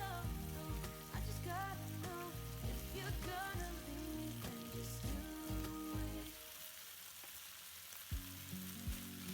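Food sizzling as it fries in a pan, under background music with a melody. The music drops out for about two seconds near the end, leaving only the sizzle.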